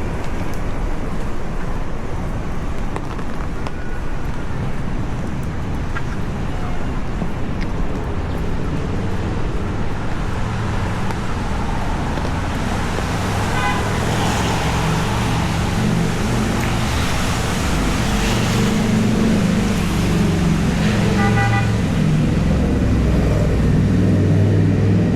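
Street traffic: cars passing with a steady rush of noise, and a heavier vehicle engine running low and loud in the second half. Two short high-pitched tones sound, about halfway through and again near the end.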